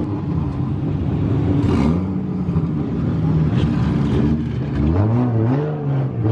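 Drift car's engine running and being blipped, its pitch rising and falling over and over, with bigger swells near the end. A short burst of hiss about two seconds in.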